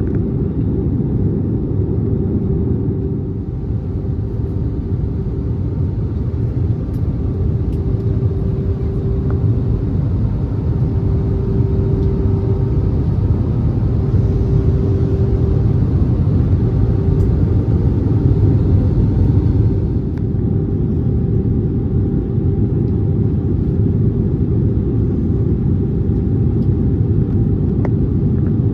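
Airbus A320neo cabin noise in descent: a steady low rumble of engines and airflow with a constant hum in it. It grows a little louder in the middle and eases back about twenty seconds in.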